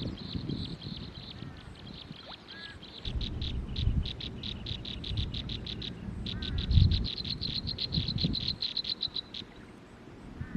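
Nestling birds begging in the nest: rapid trains of high, evenly repeated chirps, several a second, in two long runs, over low rumbling bumps.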